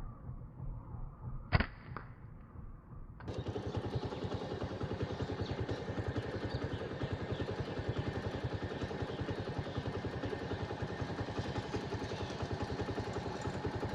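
A single sharp knock about one and a half seconds in. From about three seconds in, a small engine runs steadily with a fast, even pulse.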